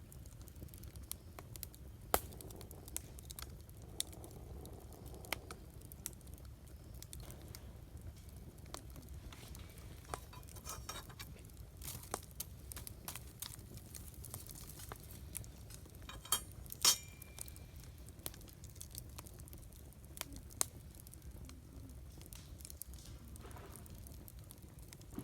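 Wood campfire crackling: irregular sharp pops, with a louder cluster of crackles about two-thirds of the way in.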